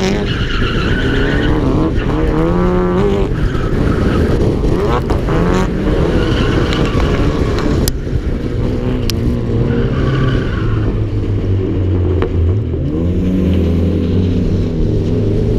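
Car engines revving up and falling back again and again through a drift, with tyres squealing in patches, heard from onboard the following car. Two sharp clicks come near the middle.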